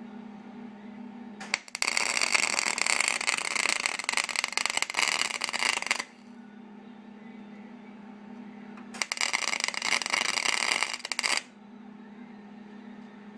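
Wire-feed (MIG) welder laying spot welds along a sheet-metal patch seam, giving two runs of dense crackling: a long one of about four seconds and a shorter one of about two seconds. A steady low hum sounds between the runs.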